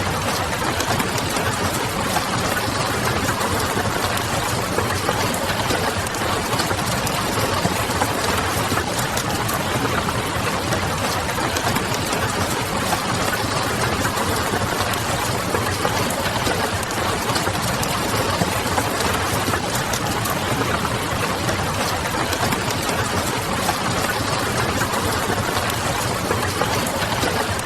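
Steady rain noise mixed with a wood fire's crackle: an even, unchanging hiss scattered with many small pops and clicks.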